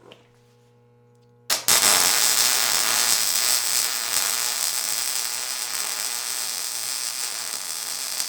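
Welding arc striking about a second and a half in and then burning steadily, a continuous frying crackle, as a bead is laid on steel.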